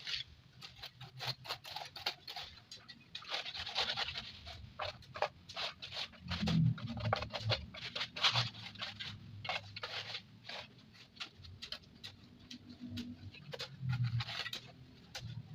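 Irregular scraping and scratching, many short strokes in quick succession.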